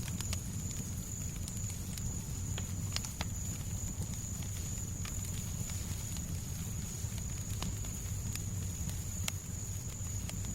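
Fireplace fire crackling, with scattered sharp pops at irregular intervals over a steady low rumble, and a thin steady high-pitched whine.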